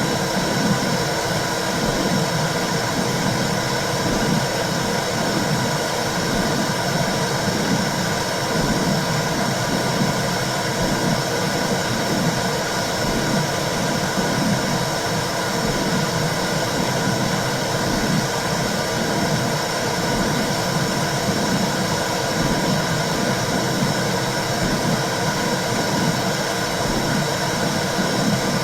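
Womb sound for calming babies: a steady whooshing noise with a regular low pulse repeating all through, like a heartbeat heard through the body.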